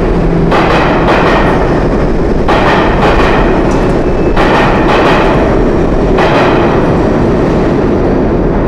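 Train running on the rails: a steady deep rumble with bursts of rattling clatter about every two seconds.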